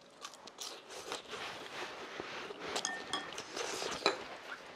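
Crunching of a freshly fried potato french fry being chewed, a dense run of crackly noises and small clicks. About four seconds in comes a single sharp clink, the loudest sound, as a small dish on the counter is handled.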